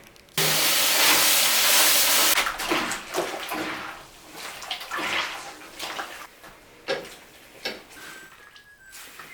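Water gushing out hard for about two seconds, starting abruptly, followed by a series of short, irregular splashes and sloshes.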